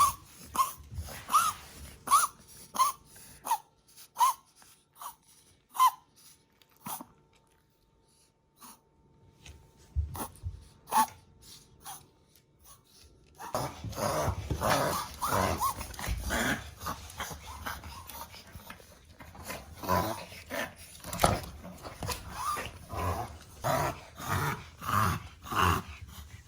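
Small dogs vocalising: short, high, arching cries repeated about twice a second for the first several seconds, then after a quiet spell a denser, noisier stretch of dog sounds with growling from about halfway through.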